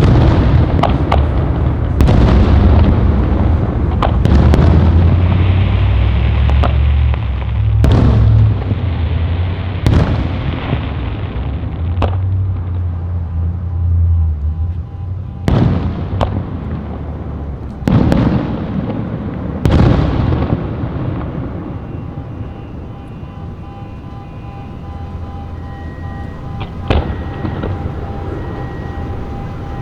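Aerial fireworks bursting: a sharp bang every couple of seconds, each trailing off into a long rumbling echo. The rumble thins in the last third, with fewer bangs.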